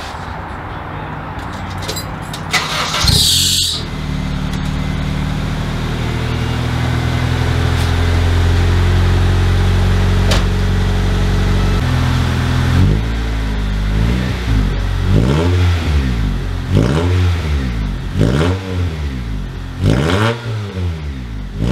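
Honda CR-V four-cylinder engine running through an open exhaust pipe with the muffler removed. It idles steadily, then from about twelve seconds in is revved in short blips, roughly one a second.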